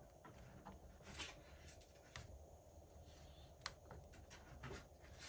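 Near silence, with a few faint sharp clicks and light scratching from handling small parts and tools at a repair bench.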